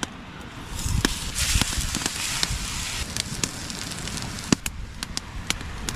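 Campfire crackling with many sharp pops, and a brighter hiss swelling for a second or two about a second in.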